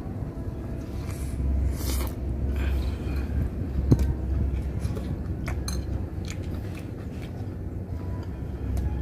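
A person biting and chewing a mouthful of grilled duck wrapped in a lettuce leaf, with scattered sharp crunches and clicks, over a steady low rumble.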